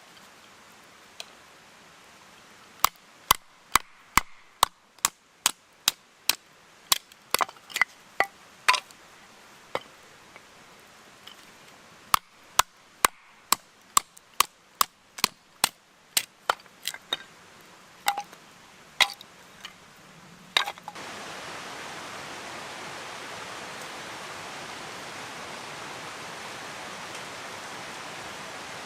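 A run of sharp, evenly spaced strikes, about two a second, in two spells with a short pause between them. About three-quarters of the way through they stop and a steady rushing noise takes over.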